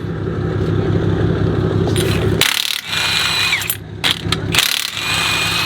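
A steady low engine hum, then two loud bursts of an impact wrench hammering on wheel lug nuts, its whine falling as it spins down at the end of the first burst.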